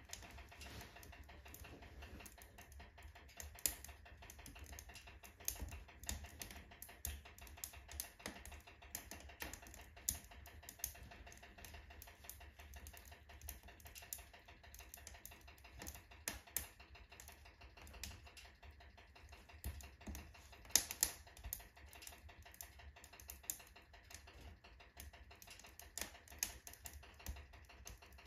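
Firewood burning in a wood stove's firebox, crackling with irregular sharp pops and ticks. One pop about 21 seconds in is louder than the rest, over a faint low rumble of the fire.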